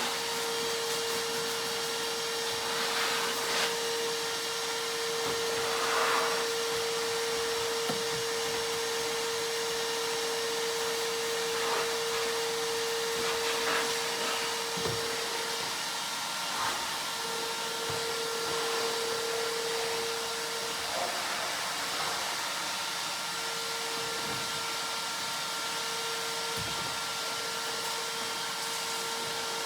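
Shop vacuum running steadily with a constant motor whine, cleaning up carved foam scraps. Brief surges of hiss come every few seconds, and the whine wavers and drops out a few times as debris is pulled into the nozzle.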